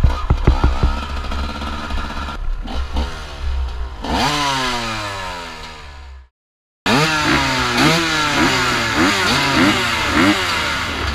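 Two-stroke 250 cc enduro motorcycle engine (TM 250 EN) running while riding, its pitch sliding down and fading as the bike slows. After a sudden cut, several dirt bike engines on a start line rev up and down repeatedly, about twice a second.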